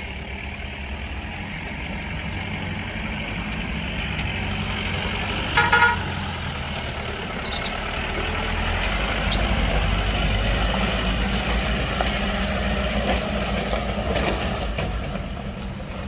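Heavy vehicle's engine running steadily, with a short horn toot about six seconds in; the engine grows louder and deeper from about halfway through.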